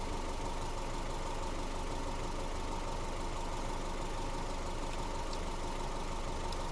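An engine idling steadily, with a constant low rumble and a faint steady hum.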